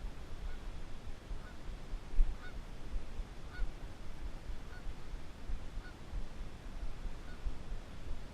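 A goose honking faintly in short calls about once a second, agitated at someone near its nest. Low wind rumble and handling bumps on the microphone, with one louder bump about two seconds in.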